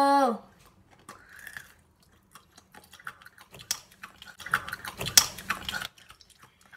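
A boy's loud held "ah!" cry falls in pitch and trails off at the very start. Then come chewing and crunching as he eats a hard-boiled egg with its shell on, with crisp cracks of shell that are densest and loudest between about three and a half and six seconds in.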